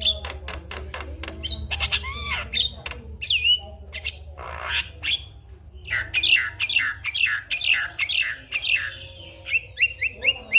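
Javan myna (jalak kebo) singing a varied chattering song of sharp clicks, harsh squawks and quick whistled notes. Near the middle comes one rasping call, then a run of rapid falling whistles, about three a second. A steady low hum lies underneath.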